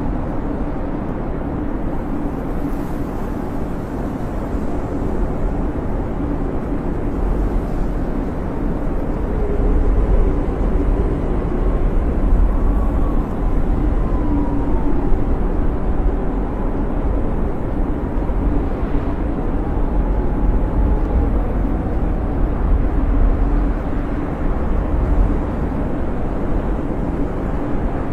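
Snowstorm wind howling around the hut: a steady, deep rumble with faint wavering whistles rising and falling over it, swelling a little in strength for a while in the middle.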